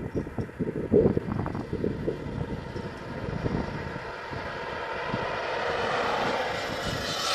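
An HPI Wheelie King electric RC monster truck, with a Traxxas 12-turn brushed motor on 2S, running on the road: its motor and tyres grow louder over the second half as it comes closer. Irregular thumps of wind on the microphone come through the first half.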